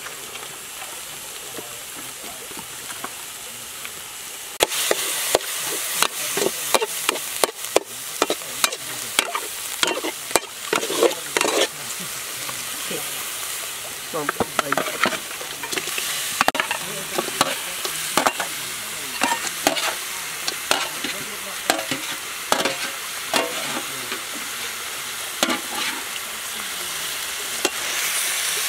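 Yellow spice paste sizzling in a wok, with a metal spatula stirring and scraping against the pan. A steady sizzle for the first few seconds, then repeated sharp clacks of the spatula from about five seconds in.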